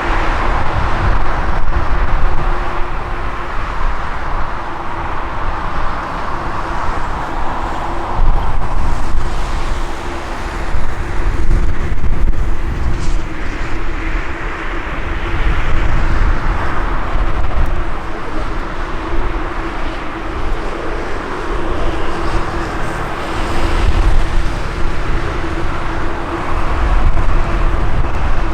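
Strong gusty wind buffeting the microphone, over the steady rush and hum of jet airliner engines that swell and fade.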